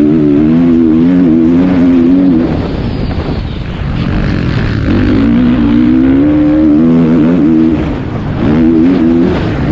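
Motocross bike engine revving hard, its pitch wavering up and down with the throttle. It eases off briefly about three seconds in and again near the end before climbing back up.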